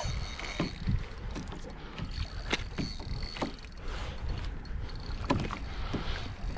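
Irregular clicks and knocks from fishing gear and the kayak while a hooked fish, likely a kahawai, is being played, over a steady low rumble.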